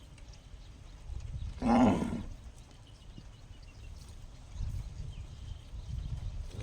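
A cow gives one short, loud, pitched call about two seconds in, an odd moo that sounds like a struck gong. A low rumbling noise comes and goes under it.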